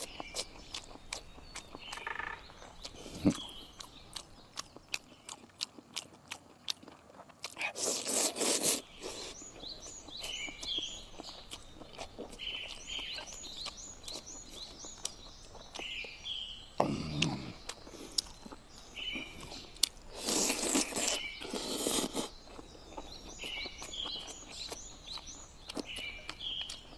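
People eating: crunching bites, slurps and sharp clicks, with two longer noisy slurping or crunching spells. A bird chirps short calls over and over in the background.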